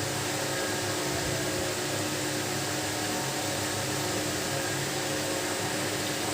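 Steady whirring hiss with a low, even hum, unchanging throughout.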